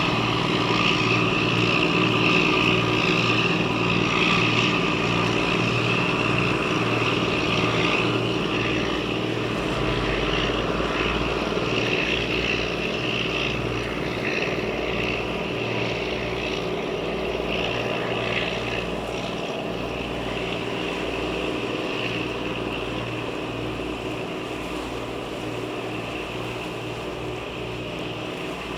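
Diesel engine of a pusher tug running steadily as it moves through the strait with its barge: a low pulsing beat under a steady hum, slowly fading.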